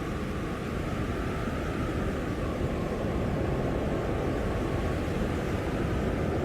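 Blizzard wind blowing steadily: a dense, low rushing noise with no distinct gusts or breaks.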